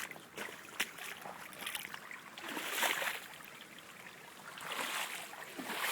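Floodwater running into a plant nursery, a steady rushing hiss that swells louder twice, with a few small splashes.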